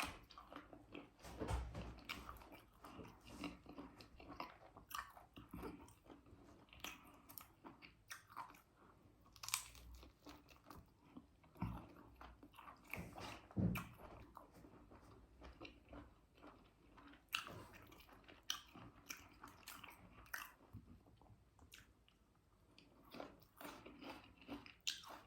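Person eating oven-roasted chicken close to the microphone: irregular bites, crunching and chewing with wet mouth clicks.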